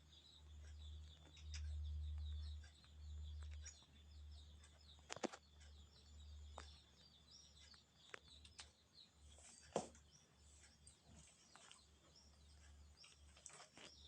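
Faint chirping of small birds, many short repeated chirps, over a low hum that swells and fades during the first few seconds; two sharp clicks stand out, about five and ten seconds in.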